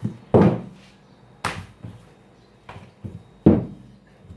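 Ramen noodle dough thumped onto the work surface: three heavy thuds about a second or two apart, with lighter knocks between.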